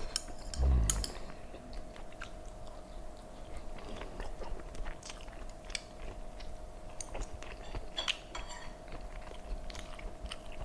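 A person chewing braised pork belly, with wet mouth clicks scattered through and a low thump about a second in. A faint steady hum runs underneath.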